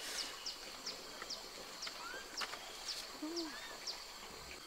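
Faint outdoor ambience: a small bird repeats short, high, falling chirps about twice a second over a steady high insect hum, with a few light clicks.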